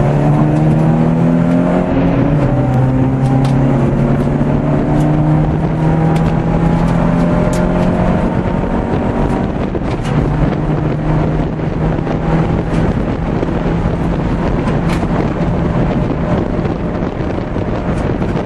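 Citroën Saxo VTS's four-cylinder engine pulling hard, heard from inside the cabin, its note climbing and dropping back at gear changes over road and wind noise.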